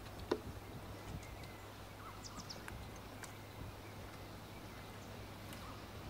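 Faint marsh ambience: scattered short, high bird chirps over a low steady background, with one brief louder sound just after the start.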